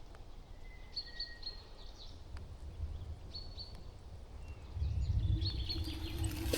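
Small birds chirping in short high notes, a few in a row about a second in, again after about three seconds and near the end, with a thin drawn-out whistle early on. Under them a low rumble that gets louder about five seconds in.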